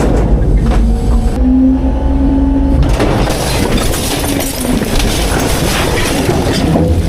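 Front-load garbage truck working: the diesel engine is running hard with a deep rumble and a hydraulic whine about a second and a half in. From about three seconds in a dense rushing, crackling noise takes over as the packer compacts the garbage.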